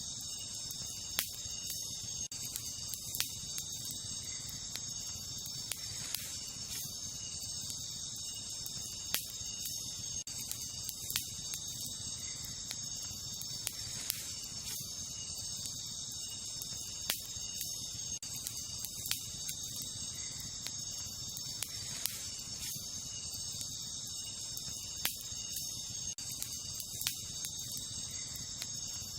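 A steady, high chirring chorus of night insects, with sharp crackles and pops from a wood campfire breaking in at irregular moments, roughly one every second or two.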